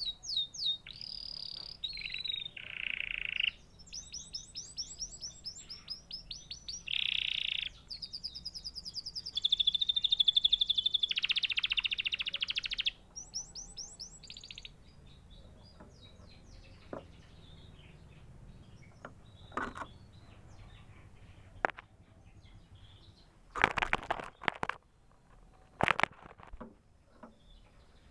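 Domestic canary singing, with fast trills and rolling repeated phrases for about the first fourteen seconds. Then the song stops and only a few short, sharp clicks and chirps are heard.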